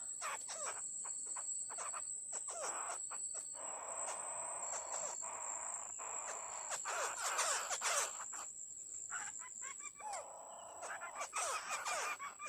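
Birds calling outdoors in a series of short falling notes, over a steady high-pitched insect drone.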